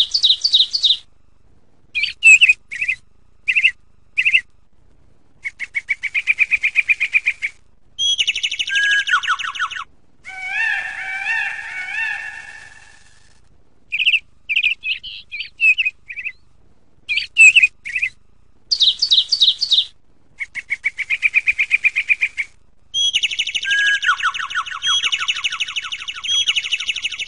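A songbird singing a long string of short phrases of fast trills and chirps, with brief pauses between them.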